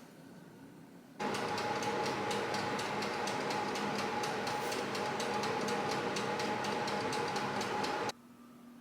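A small motorised appliance switched on for about seven seconds, running with a steady hum and a fast, even clicking of about four to five a second, then cut off abruptly.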